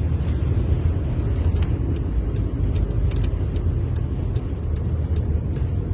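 Steady low rumble of strong sandstorm wind, with scattered sharp ticks throughout.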